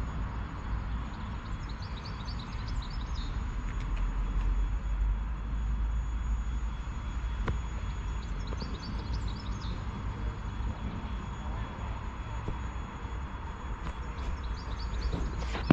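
Steady low rumble of an approaching 2M62U diesel locomotive, with a small bird chirping in short runs three times.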